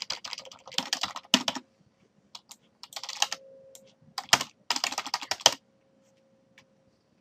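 Computer keyboard typing in quick bursts of keystrokes, stopping about three-quarters of the way through, over a faint steady hum.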